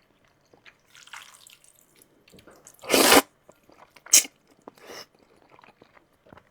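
Close-miked eating sounds of mixed noodles: soft wet mouth noises, a loud slurp about three seconds in, and a shorter, sharper one a second later.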